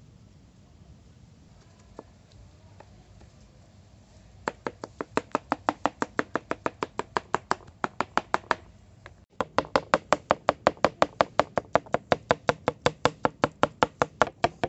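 Knife chopping food on a cutting board in quick, even strokes, about five a second, starting a few seconds in. There is a short break just past halfway, and then the chopping resumes a little faster.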